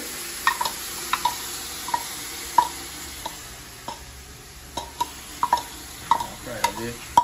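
Curry frying in hot oil in a large aluminium pot, a steady sizzle, with irregular light taps and scrapes as it is stirred.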